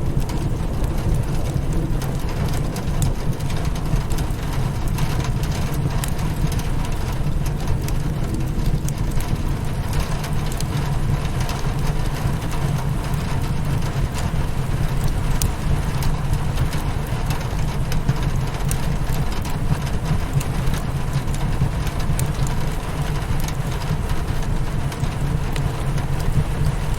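Rain beating on a windowpane mixed with a crackling wood fire: a steady hiss over a low rumble, with scattered sharp crackles and pops all through.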